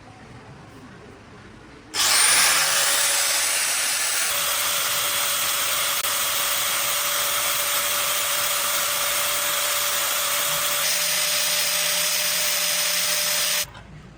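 Electric power tool spinning up to speed with a quickly rising whine about two seconds in, running steadily and loudly for about eleven seconds, then switching off abruptly.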